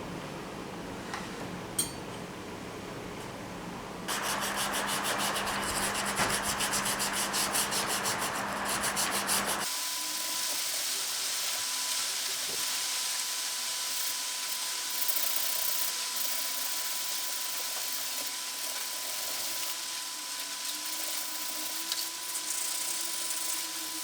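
Chestnut wood being sanded, a steady rubbing noise. It is quieter for the first few seconds, then louder with a steady hum from about four seconds in. Near ten seconds it changes abruptly to a hissier sound with a faint steady tone.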